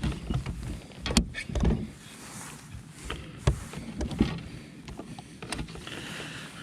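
Irregular knocks, thumps and clicks of fish and gear being handled in a kayak, with the sharpest click about three and a half seconds in.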